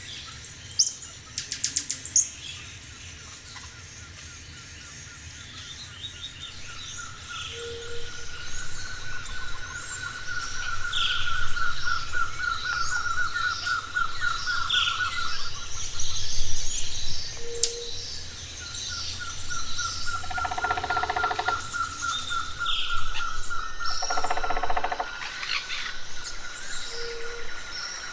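A chorus of forest birds calling. One bird gives long, fast runs of rapidly repeated notes at a single pitch, another gives a short low hoot about every ten seconds, and many higher chirps come in over them. A couple of sharp clicks sound near the start.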